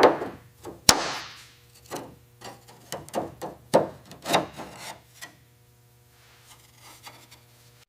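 Workshop hand-tool work on a car part: a sharp knock about a second in, then a run of scraping and rubbing strokes, the loudest near four seconds in, dying away after about five seconds over a faint steady hum.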